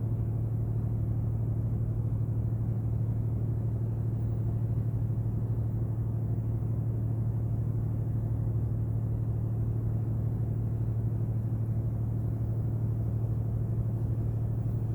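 A ship's engine running at constant speed, giving a steady low drone that does not change.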